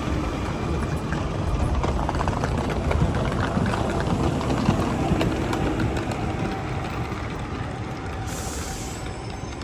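Tram running on its tracks: a steady rumble with a rapid rattle of clicks, loudest in the first half and easing off toward the end.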